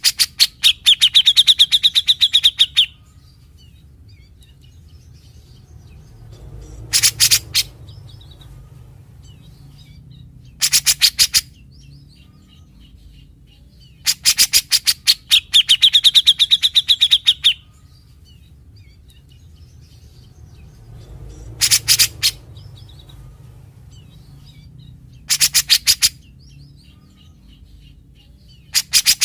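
Grey-cheeked bulbul (cucak jenggot) singing in loud bursts of very rapid chattering notes, the fast 'besetan' rattles typical of this bird. The bursts alternate between long runs of about three seconds and short ones under a second.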